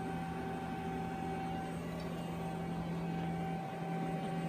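Steady machine hum: an even low tone with a fainter higher whine, running without change.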